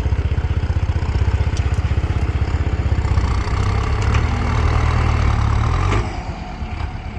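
Kubota M6240 tractor's diesel engine running with an even pulse; about three seconds in it picks up and runs louder, then drops back suddenly about six seconds in.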